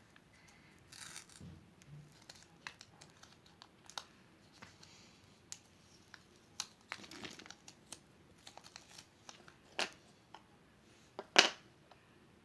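Foil wrapper of a Kinder Surprise egg crinkling and tearing as it is handled and unwrapped, with scattered small clicks and a sharp snap near the end.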